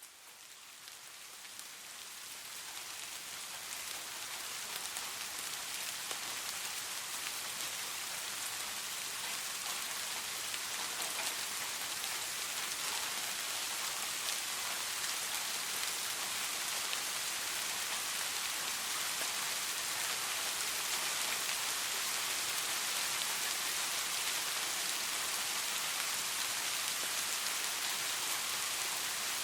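Steady rain falling, a dense even hiss of drops that fades in over the first few seconds and then holds level.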